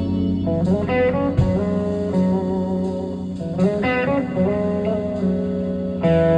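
Live blues-rock band with electric guitar to the fore, holding notes over bass and chords that change about a second and a half in and again near the end.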